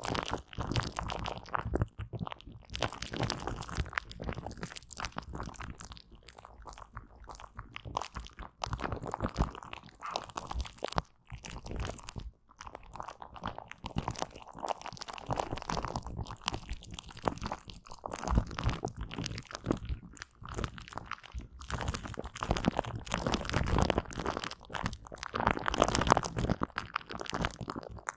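Aloe vera gel being wiped and smeared close to the microphone: dense, irregular wet crackling and squishing.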